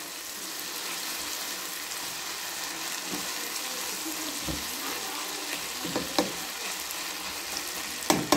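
Boneless chicken pieces frying in oil with spices in a nonstick karahi, sizzling steadily while stirred with a silicone spatula, with a few knocks of the spatula against the pan. The chicken is being bhuna'd, stir-fried in its spices until cooked through.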